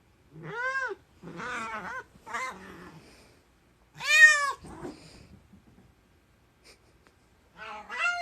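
A cat meowing several times in a row, each call rising and then falling in pitch. The loudest call comes about four seconds in, and after a pause there is one more meow near the end.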